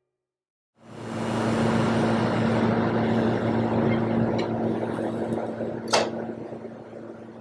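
A machine running with a steady electrical hum and a rushing noise, starting about a second in and easing off near the end, with a sharp click about six seconds in.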